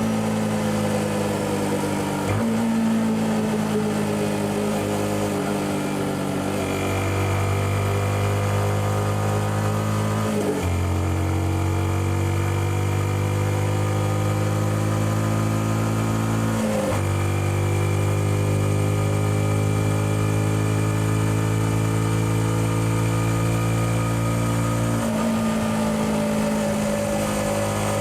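Yamaha XSR155 single-cylinder engine through its stock exhaust, ridden with the engine pitch slowly falling. Four times, about 2, 10, 17 and 25 seconds in, the sound breaks off briefly and comes back at a higher pitch.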